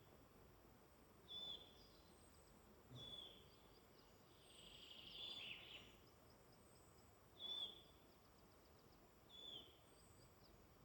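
Songbirds calling in woodland: a short, slightly falling call repeated every second or two, with fainter higher calls and one longer trilled phrase a little before halfway, over a faint steady background hiss.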